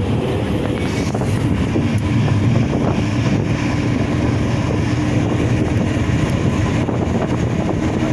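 Steady drone of a moving bus's engine and road noise, with wind on the microphone.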